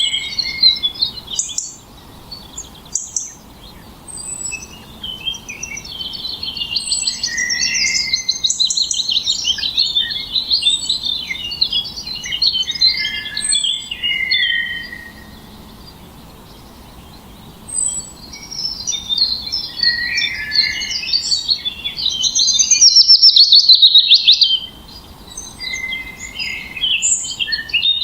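Several songbirds singing and chirping: quick trills, warbled phrases and short high tweets, with two brief lulls and a loud, dense trill about three-quarters of the way through.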